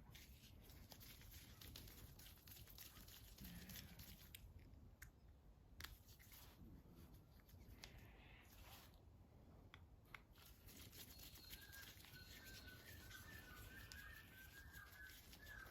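Near silence with a few faint small clicks of handling, and faint short bird chirps repeating through the latter part.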